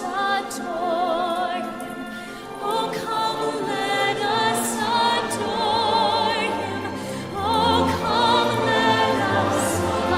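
Choir and operatic voices singing a Christmas carol with orchestral accompaniment, the held notes sung with wide vibrato.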